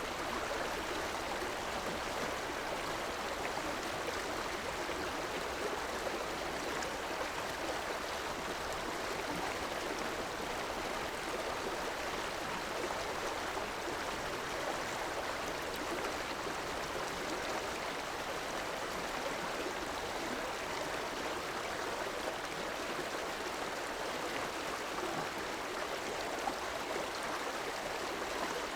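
River water flowing steadily, an even rushing and gurgling that does not let up.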